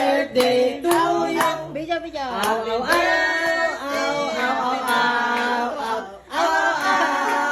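Singing voices, several pitched lines sliding up and down together, over a regular beat of sharp clicks about twice a second.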